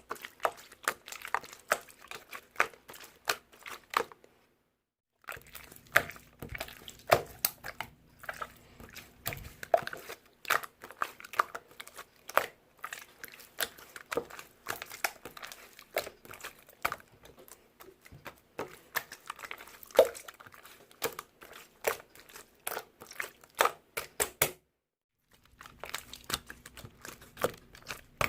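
Clear slime squished and poked by hand, making dense, irregular clicks and wet pops. The sound cuts out completely twice, for about a second each time.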